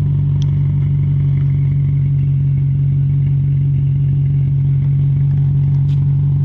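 BMW E39 540i's 4.4-litre V8 idling steadily through a catless custom exhaust with a Thrush muffler, a deep even note with no revving, while the engine is still warming up.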